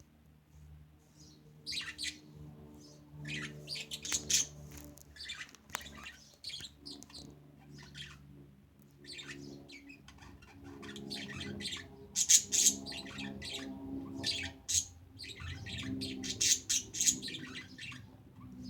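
Budgerigars chirping and chattering in many quick, sharp calls, with a few louder squawks, over a faint low steady hum.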